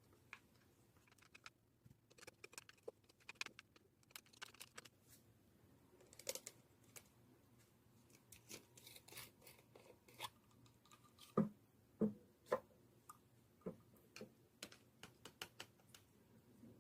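Fluffy slime being squeezed and poked by hand, giving irregular sticky clicks and crackles, with a few louder wet pops about two-thirds of the way through.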